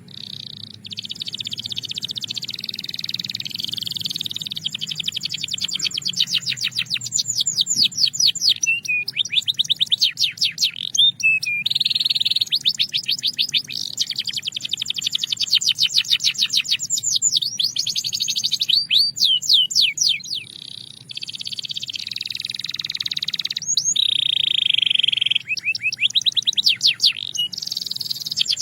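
Belgian canary singing a long, continuous song of fast, rapidly repeated trills and rolls, with brief pauses between phrases.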